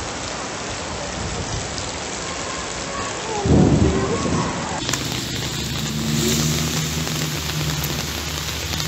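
Heavy rain and rushing floodwater as a dense, steady hiss, with a loud low rumble of thunder a little past three seconds in. About halfway through, the sound changes abruptly to rain with a steady low engine hum underneath.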